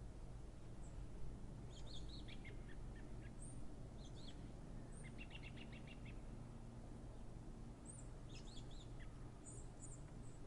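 Small birds chirping in short bursts, with one quick trill of rapid notes about five seconds in, over a steady low rumble of distant city noise.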